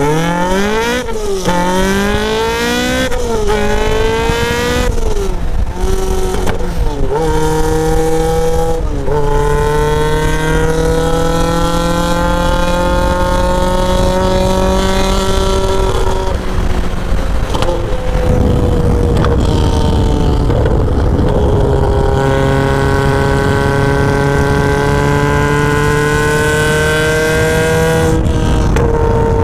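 Caterham R500 Superlight's 1.8-litre naturally aspirated Rover K-series four-cylinder accelerating hard, rising in pitch and dropping back through several quick upshifts in the first few seconds, then pulling longer through the higher gears and holding a steadier note from about two-thirds of the way in. Wind rushes through the open cockpit.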